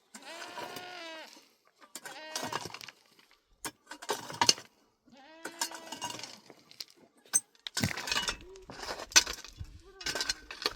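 Goats or sheep of a herd bleating: several long, wavering bleats in the first two-thirds, followed near the end by a spell of clattering knocks.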